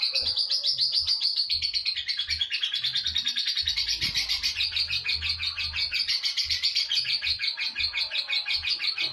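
Lovebird in a long, unbroken 'ngekek' chatter: a rapid run of high, shrill notes, about ten a second, kept up without a break.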